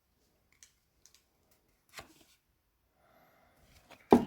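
Quiet handling of trading card packs on a desk: a few faint clicks and one sharp knock near the end.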